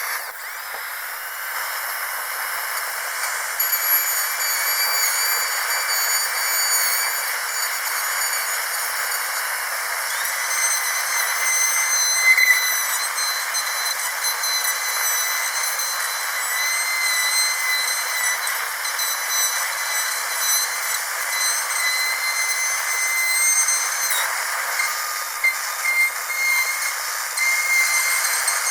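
Dentist's drill whining at a high pitch over a steady hiss, its several whining tones shifting slightly in pitch now and then.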